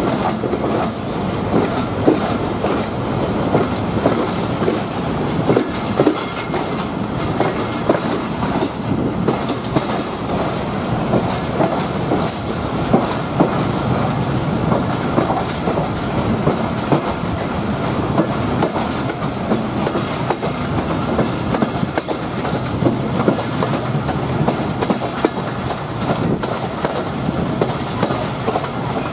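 Running noise of a moving train, heard from a coach window: the wheels clatter over rail joints in irregular clicks and knocks over a steady rumble.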